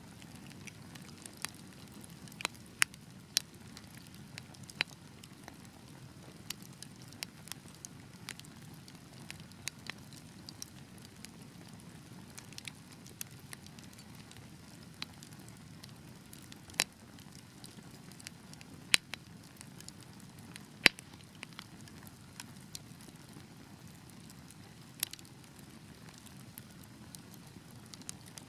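Wood fire burning in a fireplace: a steady low rumble of flames with irregular crackles and sharp pops, a few of them much louder than the rest.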